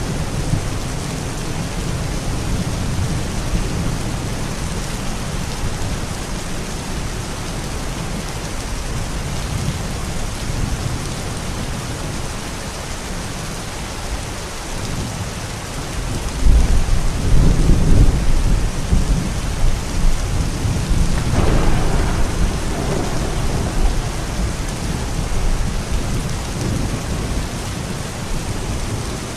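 Steady rain on a thunderstorm ambience track. A little past halfway a long roll of thunder rumbles in, swells again with a sharper peak a few seconds later, then fades away.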